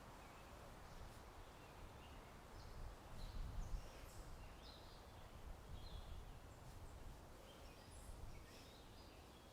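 Faint outdoor ambience: scattered short bird chirps and tweets over a low wind rumble that swells briefly about three and a half seconds in.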